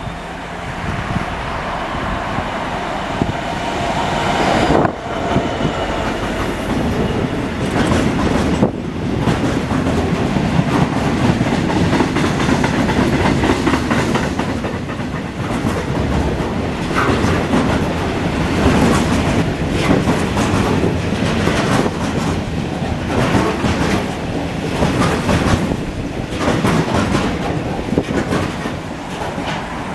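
Train running along the track, its wheels clicking over rail joints.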